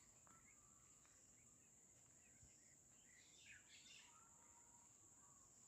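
Very faint birdsong: scattered short chirps, a small cluster about three to four seconds in, over a steady high-pitched insect trill.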